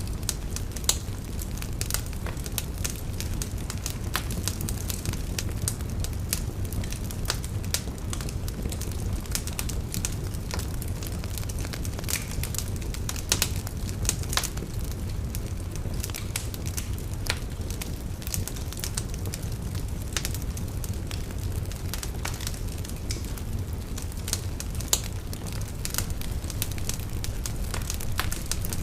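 Wood fire burning in a fireplace: a steady low rumble of flame with frequent irregular crackles and occasional sharper pops.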